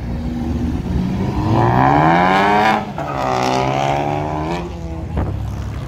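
Car engine accelerating hard, its pitch climbing for about two seconds, then dropping sharply at an upshift about three seconds in and climbing again in the next gear. A single sharp crack comes near the end.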